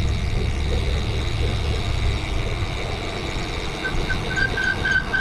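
Wind and road noise on a GoPro Hero 8 Black's microphone while cycling: a steady low rumble. About four seconds in, a quick run of short high squeaks starts, about four a second.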